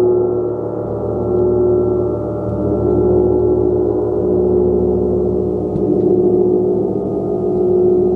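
A large gong played continuously in a long wash of sound, many steady overlapping tones humming together, strongest around a low-middle note, the loudness swelling and easing every two seconds or so as it is kept going with soft repeated strikes.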